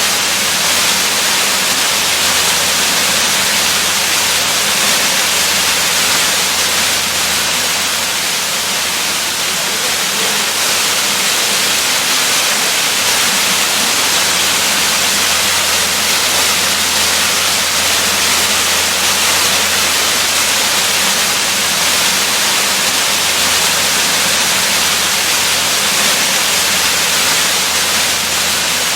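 Waterfall: a steady, dense rush of falling water, even and unchanging, with most of its energy in the hiss.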